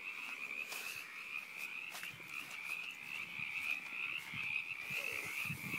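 A frog calling in daylight: a continuous, high-pitched, rapidly pulsing trill that holds steady.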